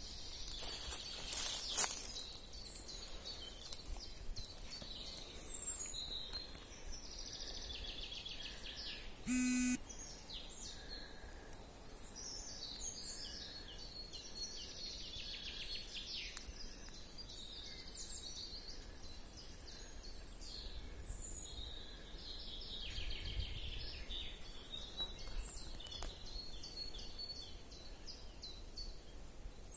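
Woodland birds chirping and singing on and off, with a faint note repeating about once a second. A short, loud buzz-like blip cuts in about a third of the way through.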